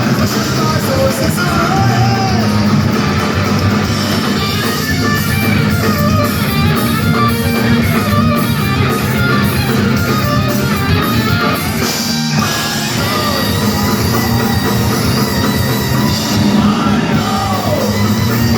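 A live punk rock band plays at full volume: distorted electric guitars, bass and a drum kit driving hard, with a singer's voice over them.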